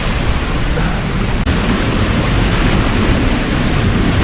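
Waterfall rushing steadily, a loud, even roar of falling water, with a brief break about a second and a half in.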